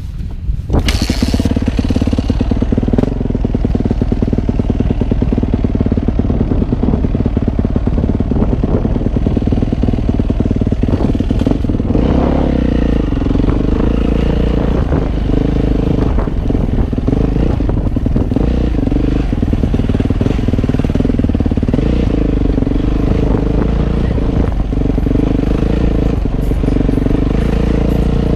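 Motocross motorcycle engine running close up, heard from the bike, its pitch rising and falling with the throttle, over a rattle of short knocks.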